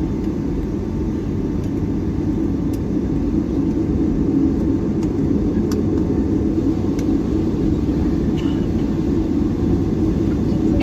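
Steady low rumble inside the cabin of a Boeing 757-300 airliner: engine and airflow noise on the ground after landing, with a few faint ticks.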